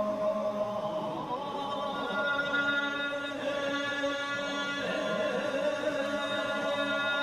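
Choral chanting music: several voices holding long, steady tones together, with a new higher held note coming in about two seconds in.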